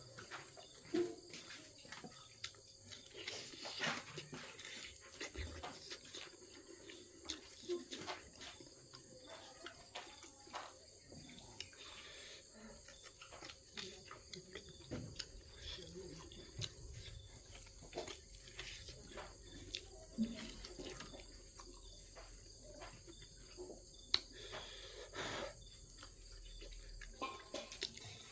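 Close-up eating sounds: irregular small clicks and smacks of chewing, over a steady high chirring of crickets.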